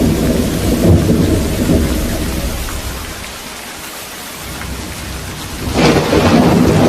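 Steady rain hissing through a thunderstorm. A low thunder rumble dies away over the first few seconds, then a sharp thunderclap breaks nearly six seconds in and rolls on.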